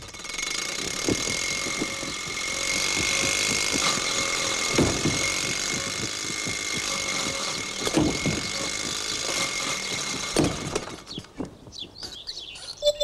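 Vintage open car's engine running as it drives along, a steady noise with a thin high tone, broken by a few knocks spaced a few seconds apart. The engine noise falls away about eleven seconds in.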